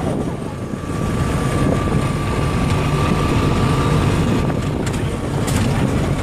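An engine running steadily, with a thin steady whine above it that fades about four seconds in.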